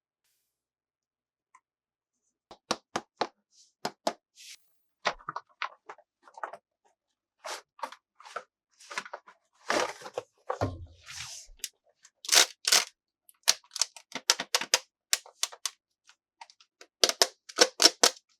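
Hands unboxing plastic toys: scattered sharp clicks and taps of plastic pieces and packaging, with a longer crinkling tear about ten seconds in and a quick run of clicks near the end.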